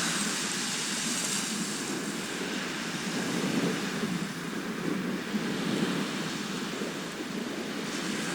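Sea waves washing onto a shore in a steady low rush, with a brighter hiss of a breaking wave in the first second or so that fades away.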